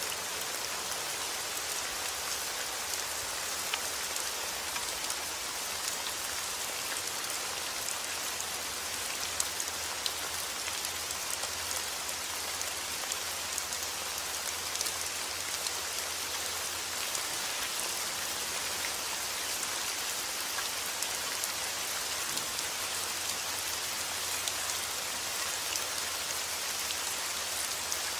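Steady heavy rain falling, an even hiss with many small drop ticks scattered through it.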